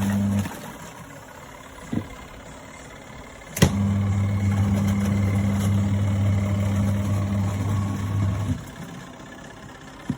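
Compact twin-tub washing machine's electric motor humming steadily: it starts with a click a few seconds in and cuts out about five seconds later, leaving a faint hiss.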